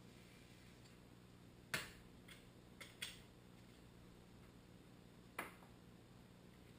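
About five short, sharp clicks, spread unevenly, over a faint steady hum.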